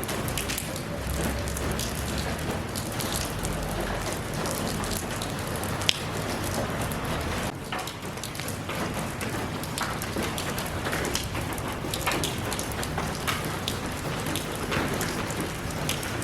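Steady rain falling, a continuous hiss with the sharp ticks of single drops striking a surface, and a brief low rumble in the first few seconds.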